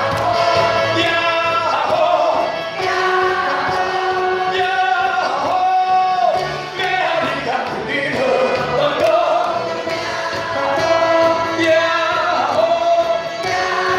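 A large group of people singing a song together in unison over backing music with a steady beat.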